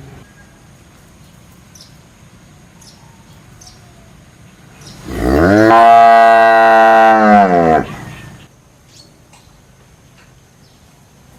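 A cow mooing: one long moo of nearly three seconds, starting about five seconds in. It rises in pitch at the start, holds steady, then falls away at the end.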